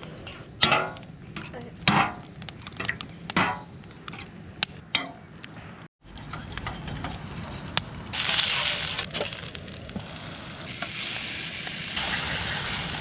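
Food frying in a pan, a steady sizzle that comes up strongly about eight seconds in, after a few sharp clicks and knocks from utensils in the first half.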